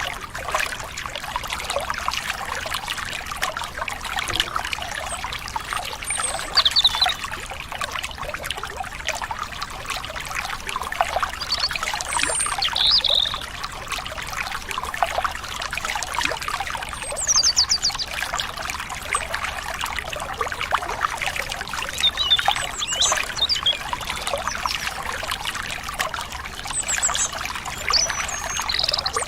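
A small stream trickling and splashing steadily over stones, with short high bird chirps breaking in every few seconds.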